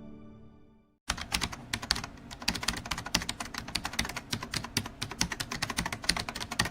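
Music fades out, then rapid, irregular clicking and tapping, many sharp clicks a second, starting about a second in.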